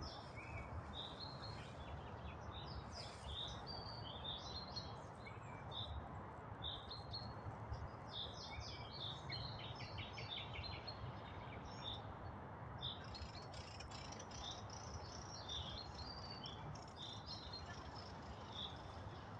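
Songbirds chirping: many short, high chirps and quick runs of notes, over a steady low background hiss.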